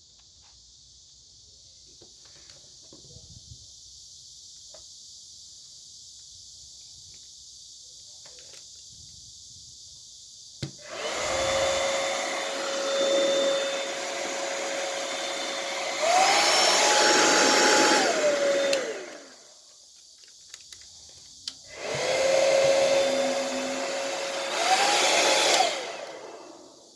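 Hair dryer switched on with a click and running with an airy rush and a steady whine, which steps up to a higher pitch when the dryer is switched to a higher speed, then winds down as it is switched off. This happens twice, the second run shorter.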